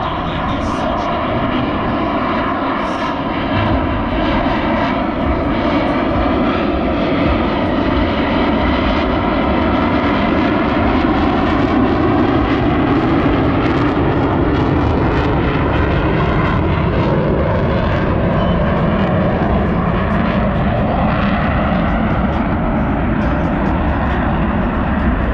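Boeing F/A-18 Super Hornet jets with twin GE F414 turbofan engines, running loud and unbroken during a slow, nose-high low pass. The engine pitch slides slowly as the jets move past.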